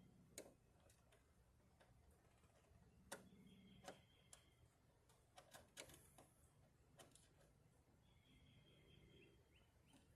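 Faint, scattered sharp clicks and taps of a screwdriver working at small screws on the truck, about a dozen, mostly in the middle. A faint high chirp about a second long sounds twice in the background.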